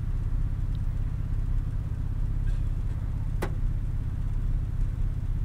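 Car engine idling, heard from inside the cabin as a steady low hum, with one sharp click about three and a half seconds in.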